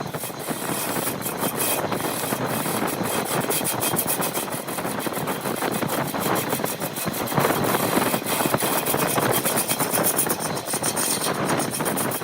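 Woodworking machine running and cutting wood: a steady rough noise with rapid crackling clicks throughout, swelling a little past the middle.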